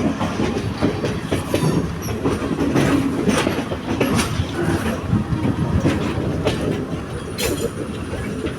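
Train running along the track: a steady rumble with irregular clattering knocks of the wheels over the rails, and a short high squeal of the wheels near the end.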